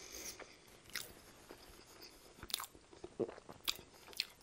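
Close-miked chewing of a mouthful of A&W Teen Burger: soft wet mouth sounds with scattered smacks and clicks, a few sharper ones in the second half.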